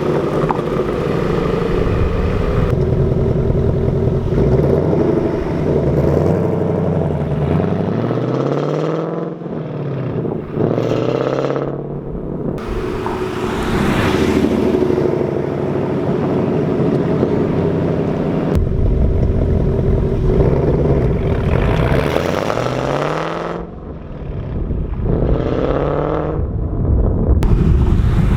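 2019 Mustang GT's 5.0 L V8 through its active exhaust with resonator-delete H-pipe, pulling away hard from a stop: the revs climb, drop at a gear change and climb again, and this happens in two separate runs.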